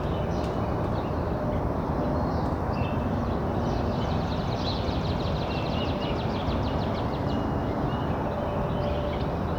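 Steady low rumble of distant traffic, with small songbirds chirping over it. A rapid, even trill of about seven notes a second runs for roughly three seconds from about four seconds in.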